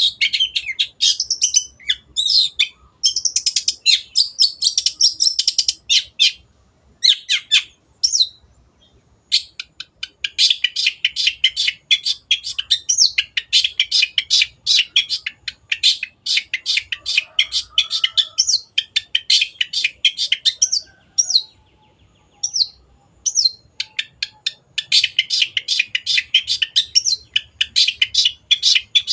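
Long-tailed shrike (cendet) singing: long runs of rapid, high chattering notes, with a short lull about eight seconds in and sparser single notes around twenty-one to twenty-four seconds before the runs resume.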